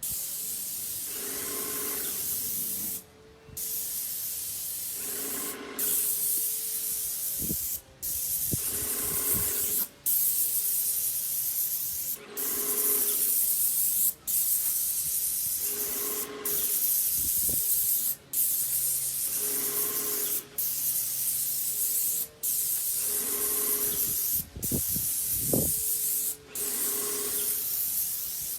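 Paint sprayer hissing as it sprays in passes, cut off briefly by the trigger about every two seconds, with a recurring hum underneath on a similar beat.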